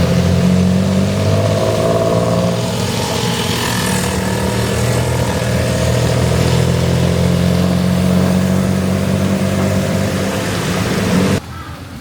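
A tuk tuk's engine running steadily under a hiss of heavy rain. Near the end the engine sound cuts off suddenly, leaving quieter rain.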